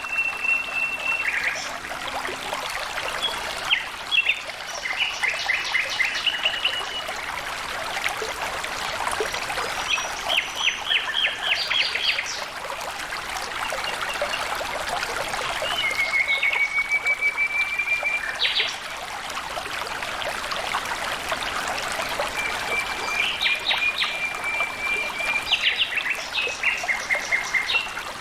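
Flowing water running steadily, with birds calling over it: several rapid trills and a few long, level whistles, one held for about two seconds past the middle.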